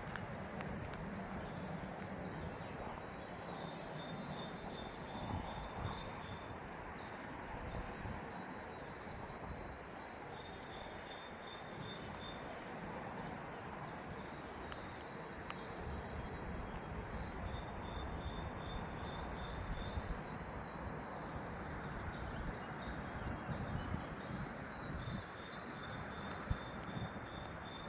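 A small songbird singing a short, rapid run of repeated high notes four times, about every seven seconds, over a steady outdoor background hum.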